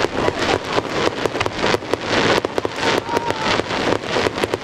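Fireworks crackling: a dense, irregular run of rapid sharp pops that overlap into a continuous crackle.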